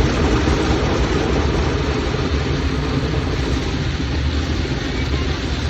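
Automatic car wash equipment working over the car, heard from inside the cabin: a loud, steady rumble and wash of spray and brush noise that does not let up.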